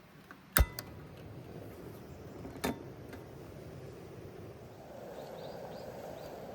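Two sharp clinks of hard objects striking, each with a brief ringing tone: the first, about half a second in, is the loudest, and the second comes about two seconds later. A soft whooshing swell rises near the end.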